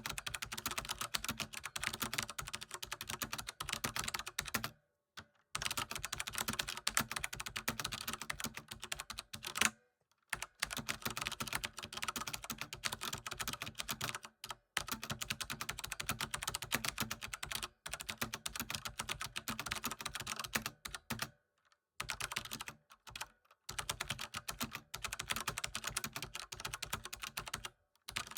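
Computer keyboard typing: fast, dense keystrokes in runs of several seconds, broken by short pauses about every four to five seconds.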